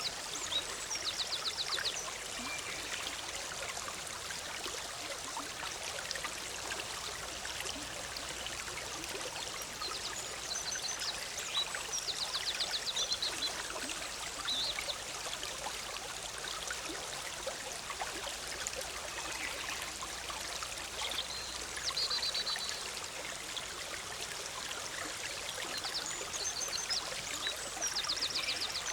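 Forest stream bubbling and splashing steadily over rocks. A small songbird repeats a short, high, trilled song several times over it.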